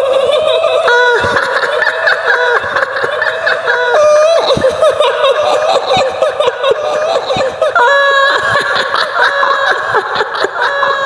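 A woman's high-pitched, shrill giggling laughter, the kuntilanak ghost's laugh, going in quick broken runs with a few longer held notes.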